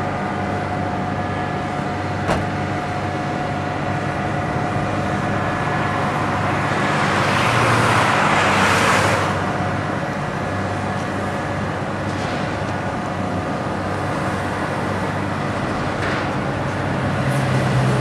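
Street traffic noise over a steady engine hum. A vehicle passes, swelling and fading about eight seconds in.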